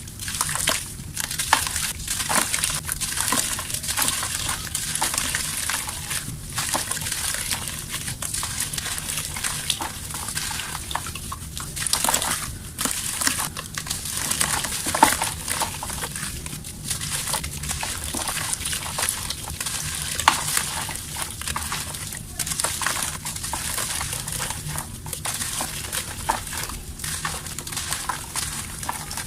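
Dry, dusty chunks of mud crumbling and snapping apart in a steady stream of small crackles, broken by frequent sharper snaps.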